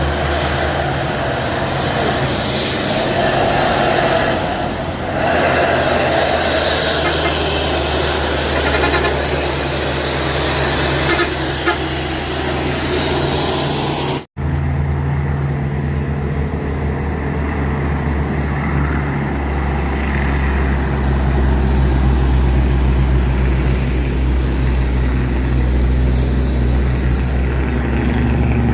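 Truck engine running with a steady low drone under road and traffic noise. The sound cuts off abruptly for an instant about halfway through, after which the engine drone is steadier.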